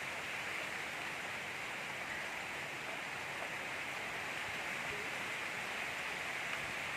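Gentle rain falling steadily, an even hiss of many small drops with no thunder.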